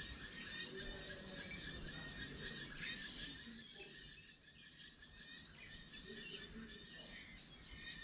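Birds chirping and calling: many short, overlapping chirps and trills over a steady thin high tone and a low background rumble.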